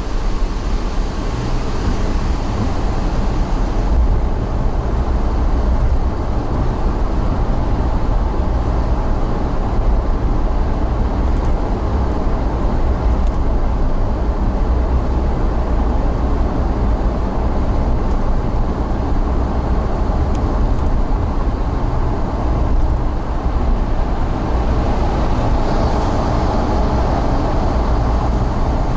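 Steady low rumble of a moving vehicle running at an even pace.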